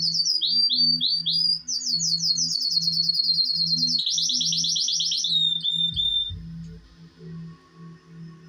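Male canary singing: fast rolling trills with a few quick falling slurred notes, a very rapid trill, then one held note, after which the song stops about three-quarters of the way in.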